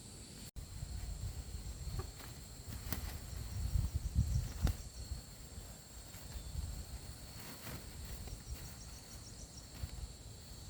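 Insects chirping steadily in two high tones, with a short pulsing trill now and then. Underneath is a low rumble that swells and fades, with a few soft knocks.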